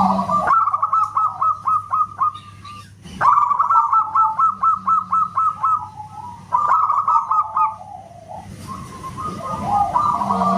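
Zebra doves (perkutut) calling in bouts of rapid, whistle-like staccato notes, several a second, with short pauses between bouts.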